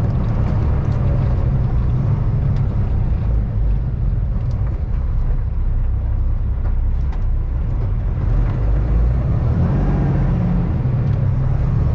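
Semi truck's diesel engine and road noise heard from inside the cab as the truck drives on, a steady low drone.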